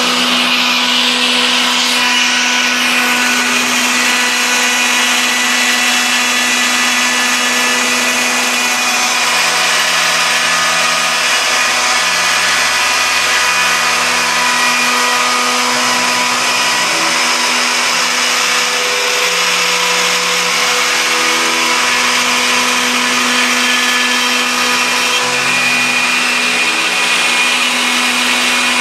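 CNC router running: the steady high whine of the spindle motor, with low stepper-motor tones shifting pitch every second or two as the axes move.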